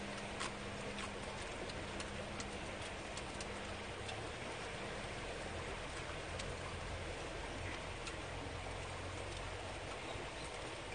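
Steady rain falling, with scattered single drops ticking on a nearby surface.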